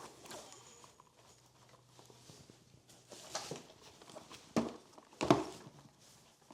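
A few sharp knocks and taps, like objects being handled and set down, with the loudest knock near the end.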